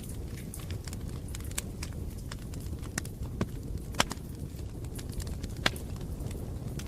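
Bonfire burning: a steady low rumble with scattered crackles and pops, two of them sharper and louder, about four and five and a half seconds in.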